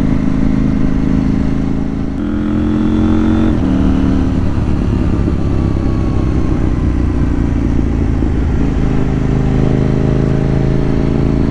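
KTM 790 Duke's parallel-twin engine running on the move. It revs up about two seconds in, drops back a second or so later, then runs steadily.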